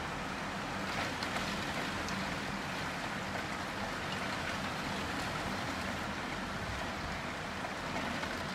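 Heavy wind-driven monsoon rain, heard from behind a closed window: a steady, dense hiss with a few faint taps of drops about a second or two in.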